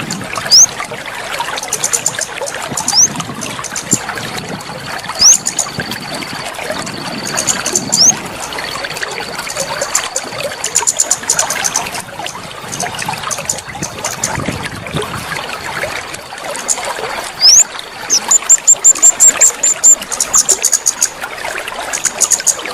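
Trickling, splashing water with songbird calls over it: short rising whistles, a long steady high whistle twice, and near the end a rapid series of sharp high chirps, about three a second.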